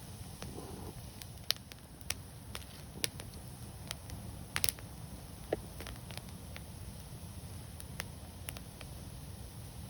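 Wood fire crackling: scattered sharp pops and snaps over a low, steady rumble, with the loudest pair of pops about halfway through.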